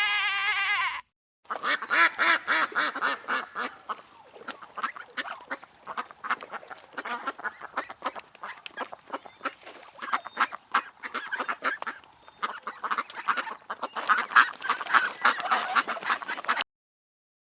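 A flock of waterfowl calling: many short, overlapping honks and quacks in a dense, continuous chatter that stops abruptly near the end. It opens with the tail of a sheep's bleat, about a second long.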